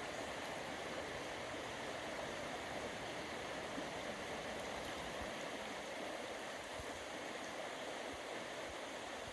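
Small wild upland stream flowing, a steady rush of running water.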